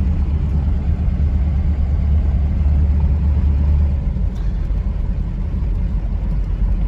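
Vehicle driving along a road: a steady low engine and road rumble that eases slightly about four seconds in.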